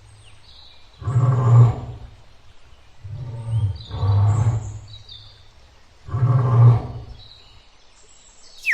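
Lion roaring: three loud roars a couple of seconds apart, the middle one in two pulses. Faint high chirps sound between them.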